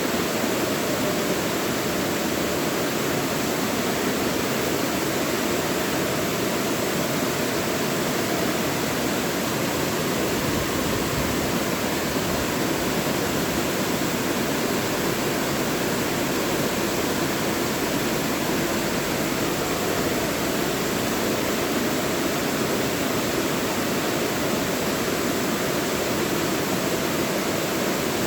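Mountain valley stream flowing steadily over rocks, a constant rushing of water.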